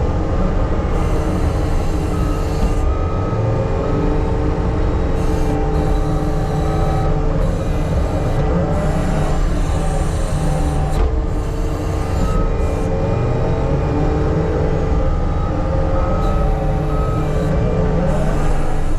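Diesel engine of heavy earthmoving equipment running steadily under load, with whines that rise and fall as the machine works.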